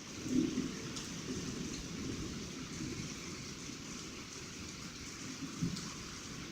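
Heavy rain pouring down steadily, with scattered drops ticking close by. A brief low thump about half a second in.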